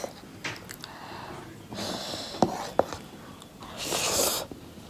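A person eating very spicy instant noodles, drawing two sharp, hissing breaths through the mouth and nose, about two seconds apart, with small wet mouth clicks between them. This is the kind of breathing that chilli heat brings on.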